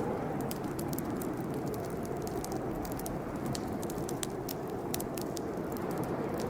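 Campfire burning with a steady low rushing of the flames and frequent sharp crackles and pops of the wood.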